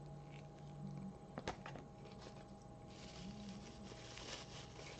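A person chewing a bite of a crispy chicken sandwich with bacon and onion: soft crunching and wet mouth sounds, with a sharp click about a second and a half in and a low hummed "mm" of a voice at the start and again past the middle.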